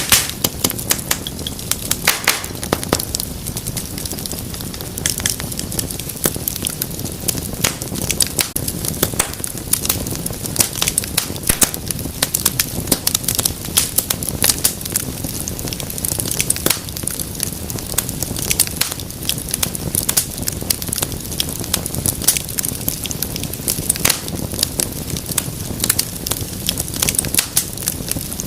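Wood fire in a fireplace crackling steadily, with frequent sharp pops and snaps over a low rumble of burning, a few louder pops in the first couple of seconds.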